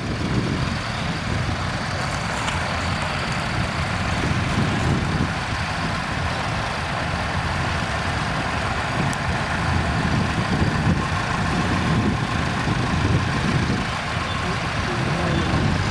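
Nuffield tractor engines running steadily as the tractors drive in, a continuous low mechanical engine sound with no break.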